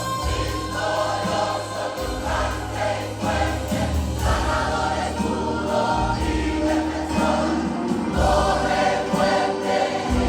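Church choir singing a Spanish-language worship song, with instrumental accompaniment and a bass line that moves every second or two.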